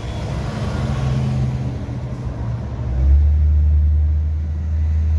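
Road traffic on a busy street: motor vehicles running past, with a deep, loud engine drone coming in about three seconds in and holding steady.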